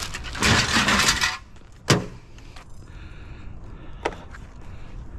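Metal shelving parts rattling and scraping as they are pulled about and handled for about a second, then one sharp clank about two seconds in, and a lighter knock near the end.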